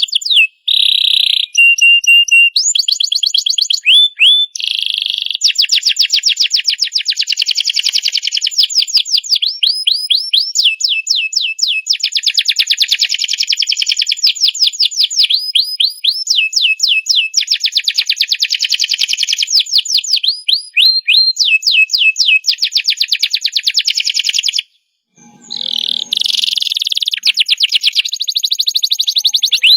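Domestic canary singing a long, loud song of rapid trills and fast repeated notes, with pure whistled notes between phrases, pausing briefly about 25 seconds in before going on.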